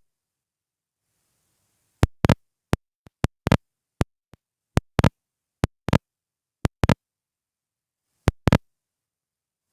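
A series of sharp clicks or taps at an irregular pace, some in quick pairs, with dead silence between them and a pause of over a second near the end.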